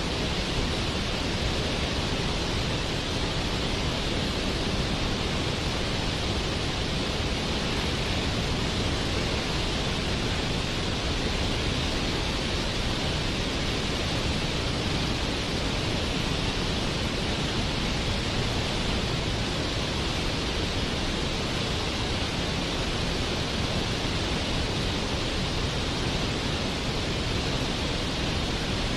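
Waterfall: steady rushing of falling water, an even hiss with no change in level.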